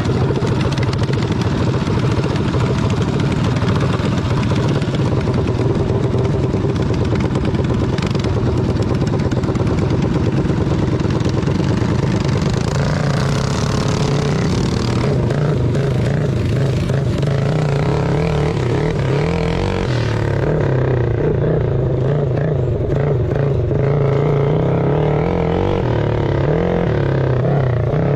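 Engines running continuously at close range, their pitch wavering as the revs change, with a shift in sound about halfway through and again two-thirds of the way in.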